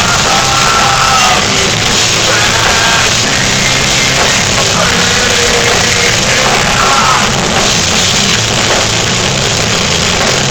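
Metal band playing live, with distorted guitars, bass and drums and some held, shouted vocal notes, in a harsh, distorted amateur recording.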